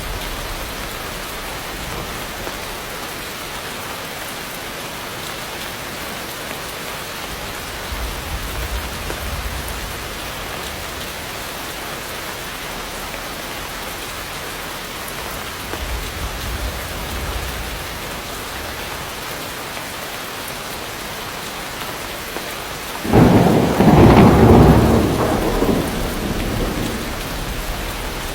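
Steady heavy rainfall with faint low rumbles of distant thunder, then a sudden loud thunderclap about 23 seconds in that rumbles away over a few seconds.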